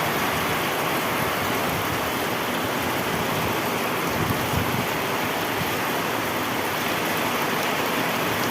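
Heavy rain falling steadily, a dense even hiss, with a couple of soft thumps about halfway through.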